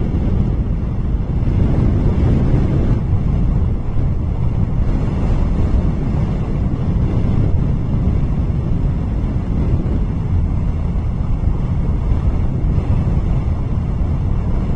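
Steady wind rumbling on an outdoor nest-camera microphone, low and continuous, with no bird calls standing out.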